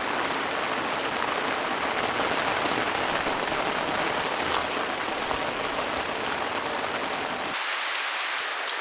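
Heavy rain falling steadily in a downpour, a dense even hiss. Near the end the sound abruptly turns thinner as its low rumble drops out.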